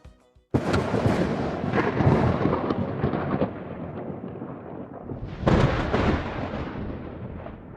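Thunder: a sudden clap about half a second in that rumbles and slowly fades, then a second loud clap about five and a half seconds in that rolls away and dies down.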